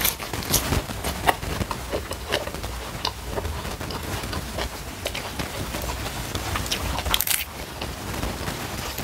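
Close-miked chewing and crunching of a mouthful of crisp raw vegetables, with irregular small crackles and one louder crunch near the end.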